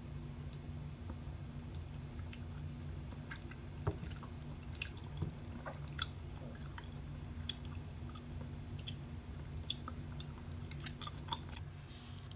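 Close-up eating sounds of someone chewing tteokbokki, soft chewy rice cakes in a thick spicy sauce: scattered small wet clicks and squishes. A steady low hum runs underneath.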